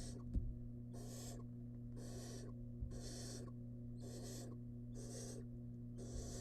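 Barn owl nestling giving its rasping, hissing begging call (the 'snoring' food call), one hiss about every second. A steady electrical hum from the nest-box camera runs underneath, and there is a light knock about half a second in.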